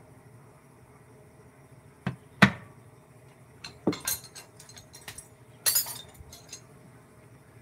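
Hard objects knocking and clinking: two sharp knocks about two seconds in, the second the loudest, then a pair of knocks and a run of lighter clicks, with a short scraping rustle near six seconds.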